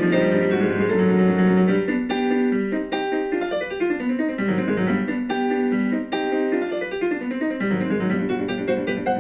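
Background piano music: a flowing keyboard piece with notes struck in quick succession.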